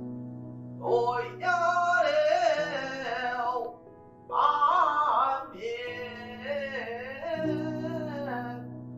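Three long sung phrases with gliding, wavering pitch over held accompaniment chords. They come from a song that sets Chinese-opera-style singing to modern accompaniment.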